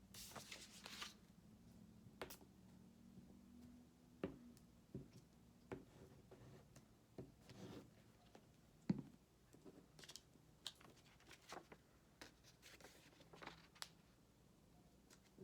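Faint rustling, scraping and light tapping of construction paper being handled and pressed down on a table, with scattered small clicks, the sharpest about nine seconds in.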